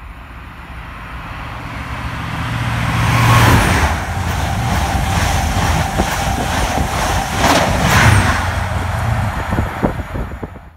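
LNER express passenger train passing through the station at speed without stopping. The rush builds as it approaches and is loudest as the front of the train goes by, about three and a half seconds in. The coaches follow in a steady roar of wheels and air, with sharp clicks of wheels over rail joints and a second swell near the end.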